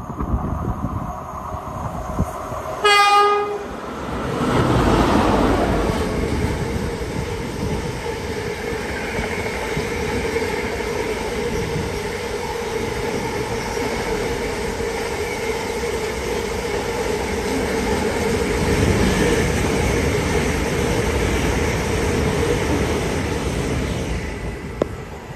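One short horn blast about three seconds in, then a container freight train passing through the station: the locomotive goes by loudest just after the horn, followed by a long run of container wagons running over the rails with a steady tone, easing off near the end.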